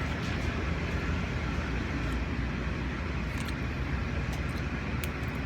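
Moving vehicle's engine and road noise: a steady low rumble.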